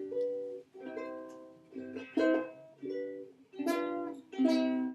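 Music: a plucked string instrument strumming a short run of chords, about six or seven strums.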